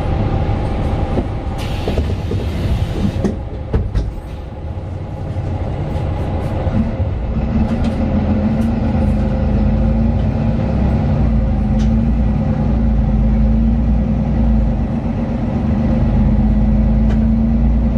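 Interior drone of a Mercedes-Benz Citaro O 530 city bus under way, its OM 936 diesel engine running, with a short hiss and a few clicks early on. From about seven seconds in, a steady hum joins and the sound grows slightly louder.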